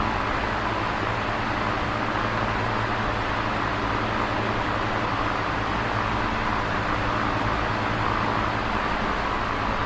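Electric fan running steadily: a constant whooshing rush of air with a low motor hum underneath.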